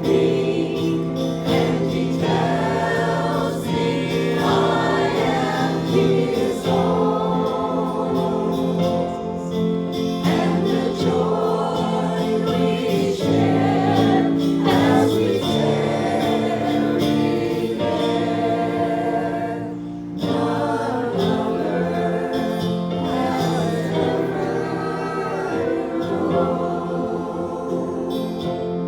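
Gospel music: several voices singing together over sustained instrumental chords.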